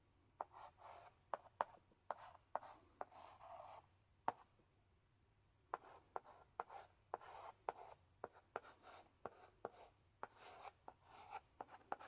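Chalk in a chalk holder writing on a blackboard: sharp taps where the chalk strikes the board, mixed with short scratchy strokes, pausing for about a second and a half midway before the writing resumes.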